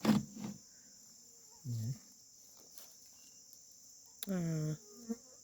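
Steady high-pitched chorus of insects in the surrounding woods, with a sharp knock at the start and two short murmured voice sounds about two and four seconds in.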